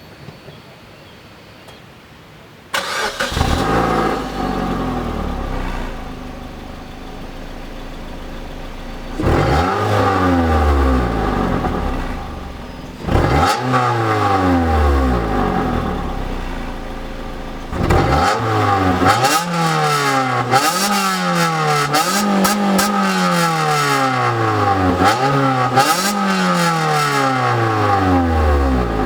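Suzuki Swift Sport's four-cylinder engine, with a Ragazzon intermediate pipe and the stock rear silencer, starts about three seconds in and settles to idle. It is then revved in free blips: two long revs that fall back to idle, then a run of quick blips every second or two.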